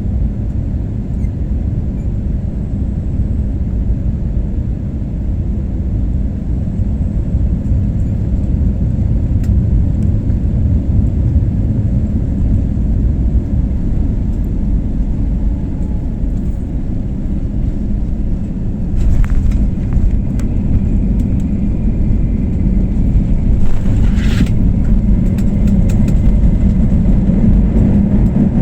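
Steady low rumble of a passenger airliner during landing, heard from the cabin, with a couple of brief knocks in the later part.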